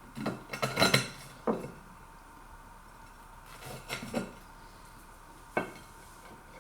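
Knife and fork clinking and scraping on a plate: a busy cluster of clinks in the first second and a half, a shorter bout around four seconds in, and a single sharp clink near the end.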